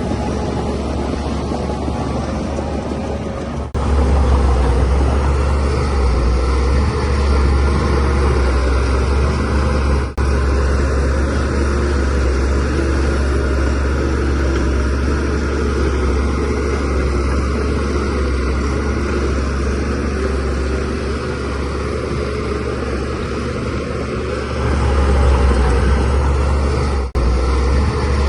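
Shantui DH17C3 bulldozer's diesel engine running steadily under load while pushing soil, with a deep low hum. It gets louder about four seconds in and again near the end, with two brief dips.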